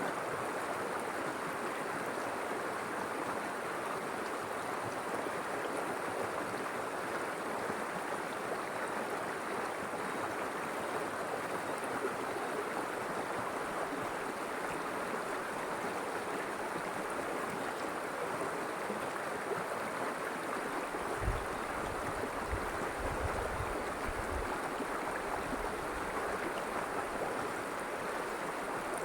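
River water flowing steadily, a continuous even rush. A few brief low rumbles come in about three-quarters of the way through.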